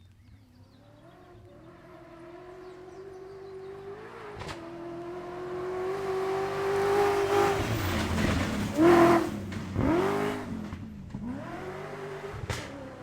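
Cross-country rally car at full throttle, its engine note climbing louder as it nears, loudest as it passes about nine seconds in, then bending down in pitch as it goes away. Sharp cracks come about four and a half seconds in and again near the end.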